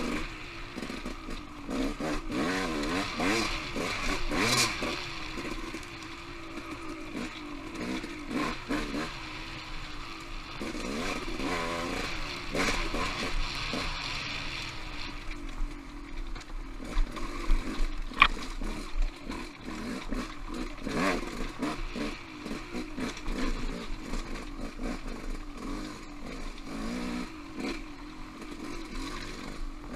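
Off-road motorcycle engine revving up and down with the throttle while riding singletrack, with knocks and clatter from the bike over rocks and one sharp crack about 18 seconds in.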